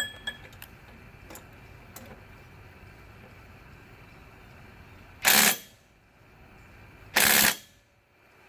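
A few light clicks, then two short bursts of a Ryobi cordless impact driver hammering on the flywheel nut of a seized snowblower engine, about two seconds apart. The nut does not turn: the engine is still seized.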